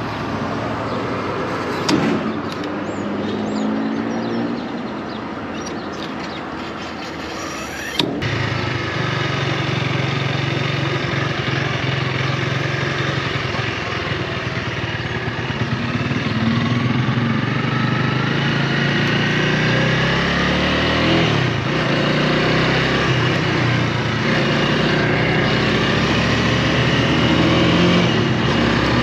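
Honda Rebel 300's single-cylinder engine running under way, its pitch rising and falling through the gears, with wind noise on the microphone. There are sharp clicks about two seconds and eight seconds in; after the second the engine is louder, and from about halfway it climbs in pitch as the bike accelerates.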